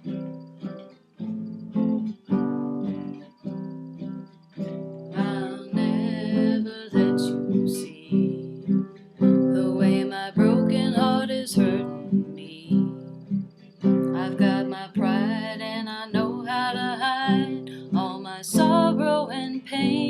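Acoustic guitar strummed in a slow, even rhythm as a ballad accompaniment. From about five seconds in, a wavering melody line with vibrato plays over it.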